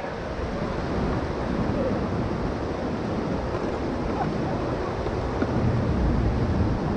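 Rushing river whitewater around a raft: a steady wash of water noise, heavy in the low end.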